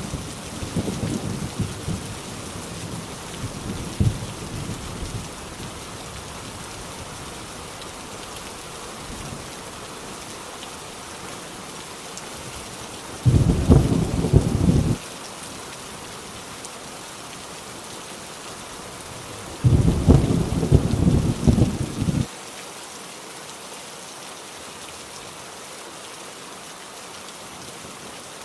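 Heavy rain drumming steadily on an old rusty tin roof, with rolling thunder. A rumble dies away over the first few seconds, then two short, loud rumbles come about halfway through and about two-thirds of the way through, each stopping abruptly.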